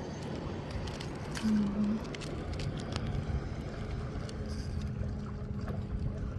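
Boat motor running steadily, a low rumble with a faint constant hum, under wind and water noise, with a few light clicks.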